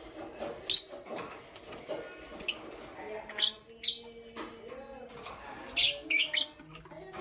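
Lovebirds chirping: short, sharp, high-pitched chirps at irregular intervals, with a quick cluster of several near the end.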